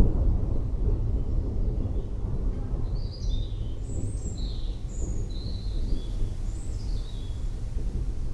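Thunder rumbling low and steadily, the tail of a louder peak just before, while small birds chirp several times in the second half.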